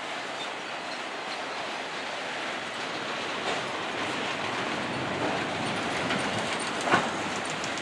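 Freight train of autorack cars rolling past, its steel wheels making a steady clattering noise on the rails. A single sharp bang comes near the end.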